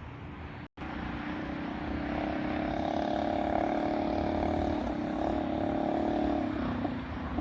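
Four-stroke mini bike engine running under steady throttle, building up about two seconds in, holding an even pitch, then easing off near the end. The sound cuts out completely for a split second near the start.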